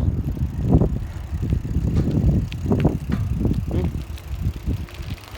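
Bicycle being ridden, recorded on a hand-held phone: an uneven low rumble with irregular knocks and rattles from the bike and the handling of the phone.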